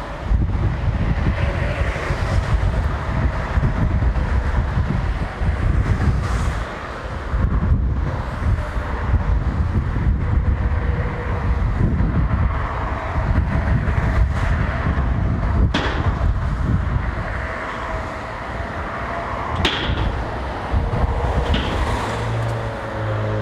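Diesel shunting locomotive DEL7609 running with a steady low rumble as it moves during shunting, with a few sharp clicks about two-thirds of the way in and near the end.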